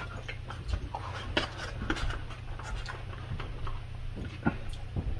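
Close-up chewing of a mouthful of rice: a string of short, irregular wet mouth clicks and smacks.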